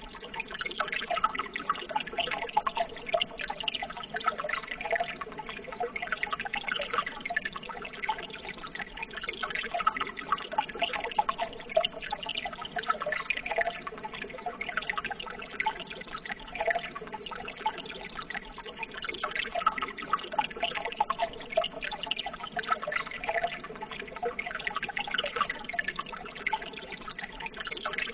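Water running continuously with a steady babbling and gurgling, full of small splashes and drips.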